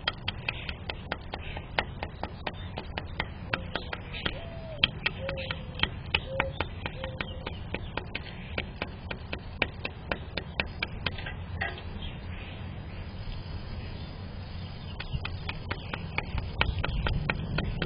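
Rapid, irregular clicks and taps, several a second, over a steady low rumble, with a few short low-pitched calls or squeaks in the first half.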